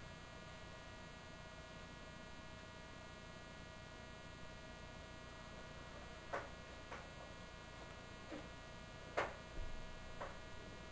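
Steady low electrical mains hum with a whine, and a few faint short clicks in the second half.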